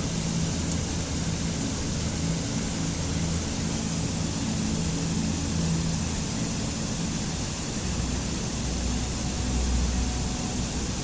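Steady rushing water, a constant hiss, with low sustained ambient music notes underneath that shift to a deeper pitch in the second half.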